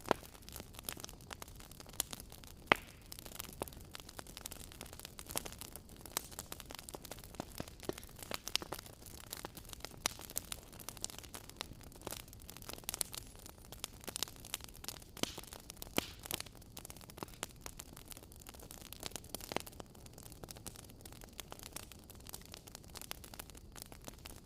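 Fire crackling in a fireplace: irregular sharp pops and snaps over a soft steady hiss, with one louder pop about three seconds in.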